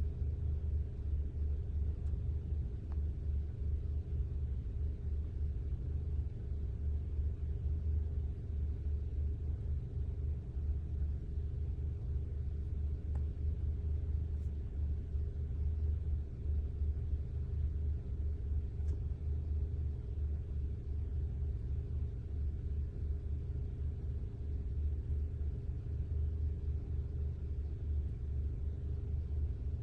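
Vehicle engine idling: a steady low rumble with a constant hum.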